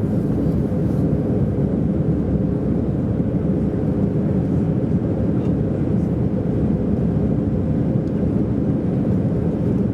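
Steady low drone of an Airbus A319's engines and rushing air as heard inside the passenger cabin during the climb after takeoff.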